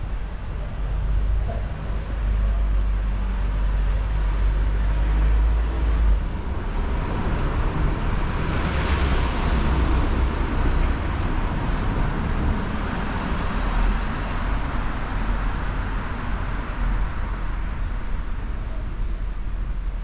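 Street traffic: a vehicle passes close by, its noise swelling to a peak about nine seconds in and then fading away, over a steady low rumble.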